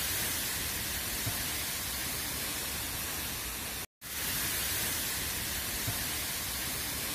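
Heavy wind-driven rain of a severe storm: a steady, even rushing hiss, broken by a brief gap of silence about four seconds in.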